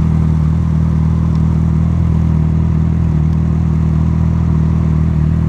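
Honda CB1000R's inline-four engine running steadily at an unchanging speed.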